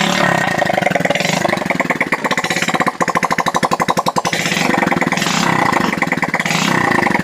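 Hero Honda Splendor's single-cylinder four-stroke engine running with no silencer fitted, giving a loud rapid exhaust pulsing whose speed shifts a little. It has just been rebuilt with a new piston, rings and timing chain.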